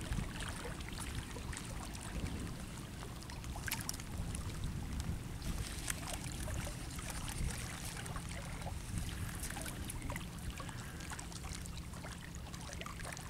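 Steady low rumble of wind on the microphone, with faint scattered clicks and light water sounds.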